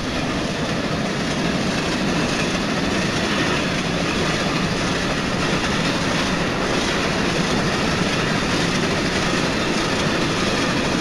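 Steady running noise of a passenger train travelling along the track, heard from on board with the outside open to the camera.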